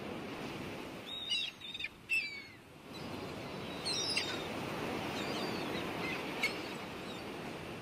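Birds chirping in short, falling calls, several times, over a steady outdoor rushing noise.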